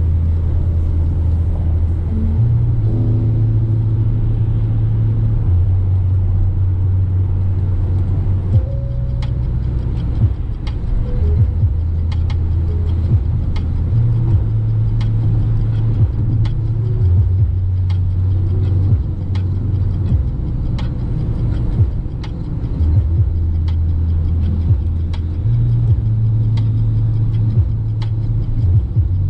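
Driving noise inside the cab of a Peugeot Expert 1.6 turbodiesel van: a steady low engine and road rumble, with car-radio music underneath whose bass notes change every few seconds.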